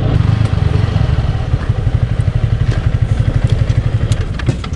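Yamaha R15 V3's single-cylinder engine idling with a steady, quick pulse, its exhaust note slightly metallic.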